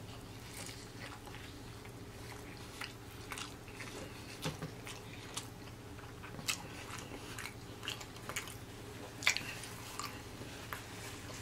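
Close-miked mouth sounds of a person biting and chewing a crispy fried chicken sandwich: soft, scattered crunches and clicks every second or so.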